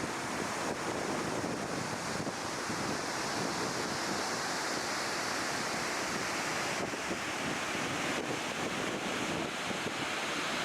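Steady rush of water, with wind buffeting the microphone.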